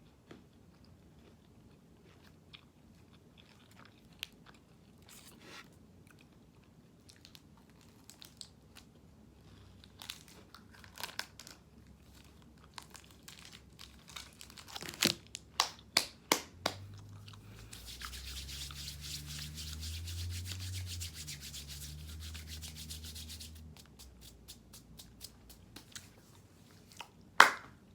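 A candy bar being opened and eaten close to the microphone: scattered wrapper crinkles and clicks, a run of sharp snaps about halfway through, then several seconds of dense, rapid crunching and rubbing, and one more loud snap near the end.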